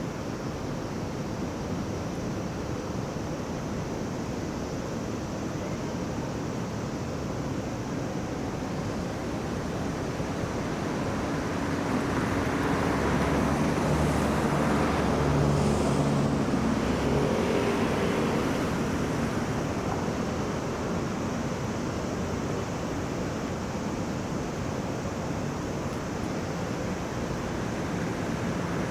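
Steady road traffic noise, with one motor vehicle passing close by about halfway through, its engine growing louder and then fading.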